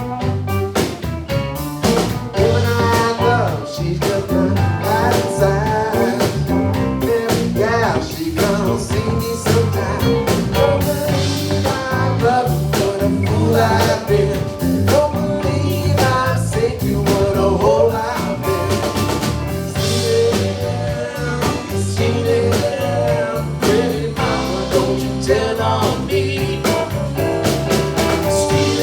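Live band playing a blues number: a voice singing over guitar and drum kit, with a steady beat.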